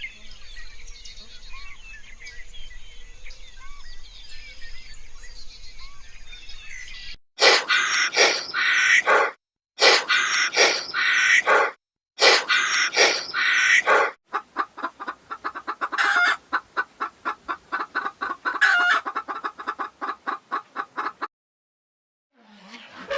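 Chickens calling. Faint high chirping for the first several seconds, then three loud calls of about a second and a half each, then several seconds of rapid, repeated clucking.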